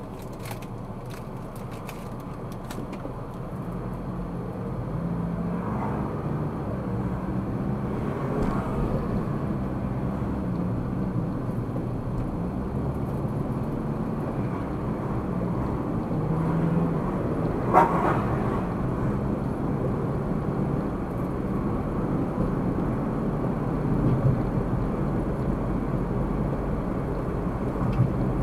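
Car driving on a road, heard from a dashcam inside the vehicle: steady engine and tyre noise that grows louder about four seconds in as the car picks up speed. A short sharp knock comes about two-thirds of the way through, with two fainter ones near the end.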